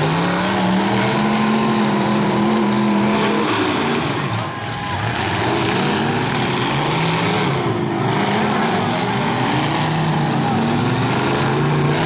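Several demolition derby cars' engines revving, pitch rising and falling again and again as they accelerate and back off, over a continuous din.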